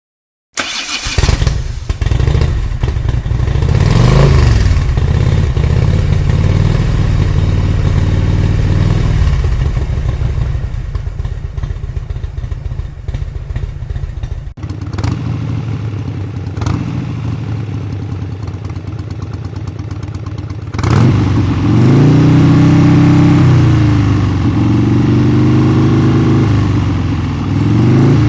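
Motorcycle engines running and revving, the pitch rising and falling several times. The sound starts abruptly and changes suddenly about halfway through, then revs up strongly near the end.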